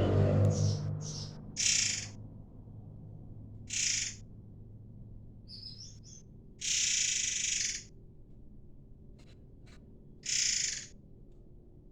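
Sumatran 'air mancur' songbird calling: a string of short, harsh, high-pitched phrases with gaps between them, one drawn out to about a second near the middle. It is played as a tutor song for training white-rumped shamas.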